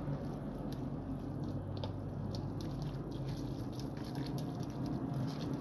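Thick instant noodles being stirred through their sauce in a bowl: soft wet squishing with scattered small clicks, over a steady low hum.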